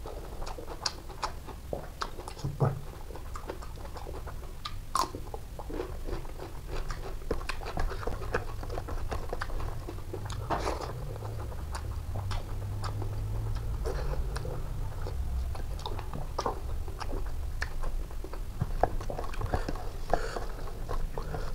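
Close-up eating sounds: a person chewing mouthfuls of boiled fish and rice eaten by hand, with many small wet clicks from the mouth and fingers in the food.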